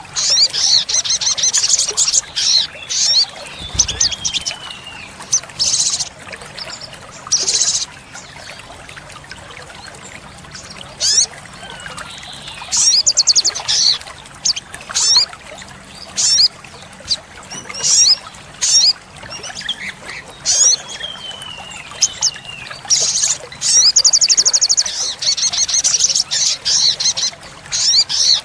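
Olive-backed sunbird singing: bursts of rapid, very high-pitched trills, the 'tembakan' shots, broken up by short sharp chips and a couple of falling whistles. The longest trill comes near the end.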